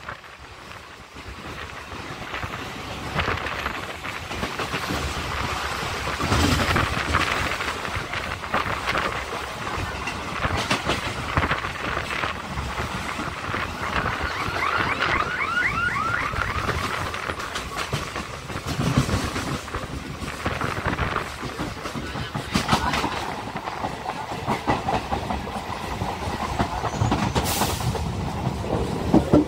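ICF suburban electric multiple unit local train running between stations: steady rumble of wheels on the track with repeated clattering over rail joints, and a short run of high rising squeaks about halfway through.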